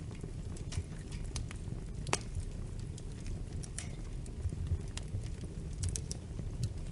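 Wood fire crackling in a fireplace: a steady low rumble of burning with irregular sharp pops and snaps, one louder pop about two seconds in.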